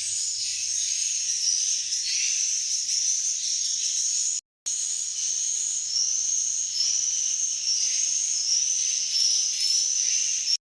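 Swiftlet calls: a dense chatter of short, high, arching chirps, several a second, over a steady high hiss. The sound cuts out for a moment near the middle.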